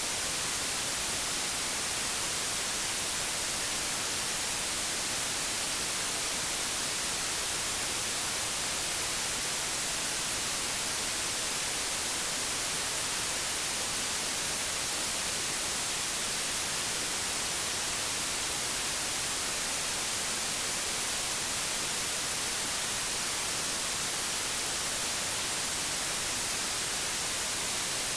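Old television static: a steady, even hiss with no breaks, strongest in the highs.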